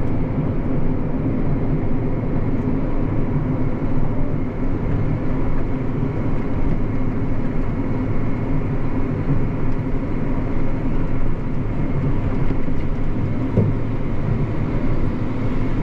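Tractor engine running steadily under way, heard from inside the cab as a constant hum with a few steady tones above the drone.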